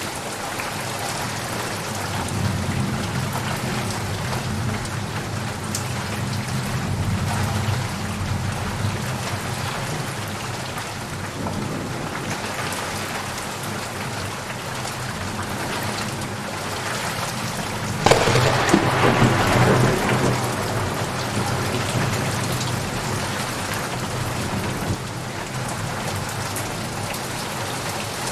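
Steady rain falling, with distant thunder rumbling low in the first third. About two-thirds of the way through, a sharp, loud thunderclap cracks and rolls on for a few seconds.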